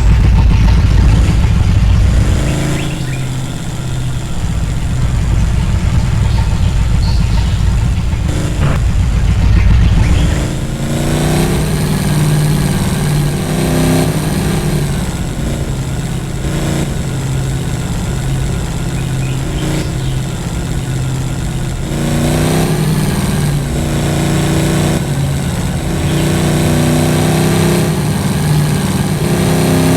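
Vehicle engine under load, its pitch rising and falling repeatedly as it revs up and eases off. A heavy low rumble dominates the first ten seconds or so.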